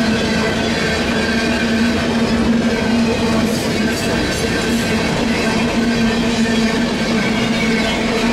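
A Union Pacific mixed freight train's cars rolling past at speed close by: a steady rolling rumble of wheels on rail, with a steady droning hum running through it.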